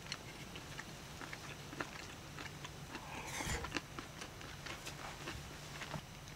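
People chewing grilled lamb, with small scattered clicks of chopsticks and a brief breathy sound about three seconds in.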